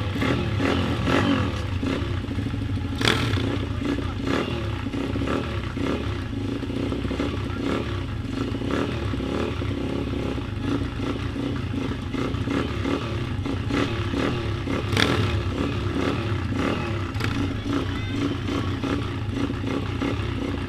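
Pit bike engine running steadily, with two sharp clicks about three seconds in and near the end.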